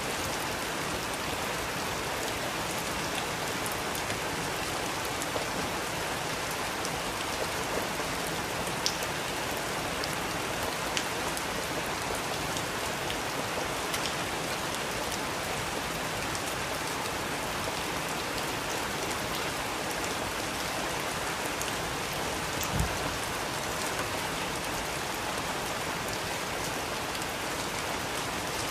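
Steady rain falling, an even hiss with scattered individual drops ticking, and one louder tap about two-thirds of the way through.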